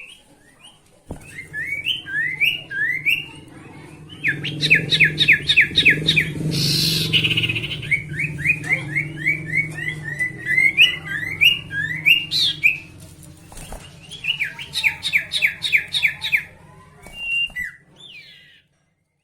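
Sirtu bird song: phrases of quick rising chirps alternating with fast, even trills, repeated over and over, with a low hum underneath through the middle and a short hiss about seven seconds in.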